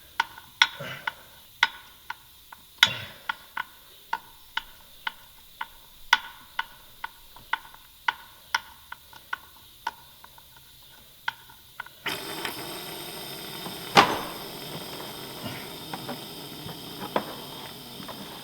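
Regular mechanical clicking about twice a second, typical of working tyre sealant in at a tractor tyre's valve stem. About twelve seconds in it gives way to a steady hiss of air from the tyre valve, with one sharp click two seconds later.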